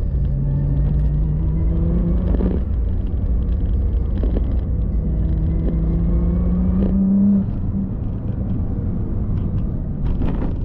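Car engine pulling through the gears: its note climbs, drops at a gear change about two and a half seconds in, climbs again, then falls off about seven and a half seconds in as the throttle is lifted, over a steady road rumble.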